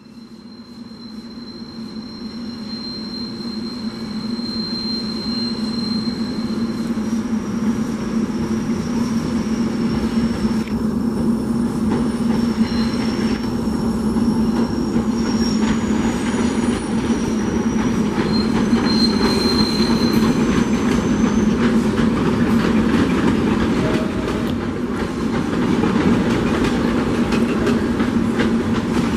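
SEPTA train running on the rails, growing louder over the first several seconds into a steady rumble and hum. High, thin wheel squeals sound over it for most of the first twenty seconds, and the rumble continues with more rail clatter after that.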